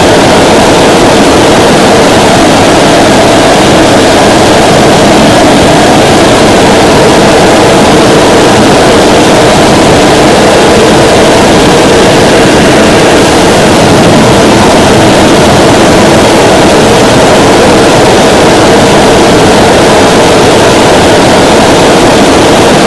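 Homemade motorjet engine, a small piston engine driving a compressor that feeds a fuel-burning combustion chamber, running steadily at full power. It makes a loud, even, rushing roar with no clear beat, running continuously through a long durability run.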